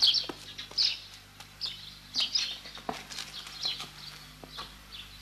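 Small birds chirping: short, high calls repeated every half second or so, with a few light knocks in between.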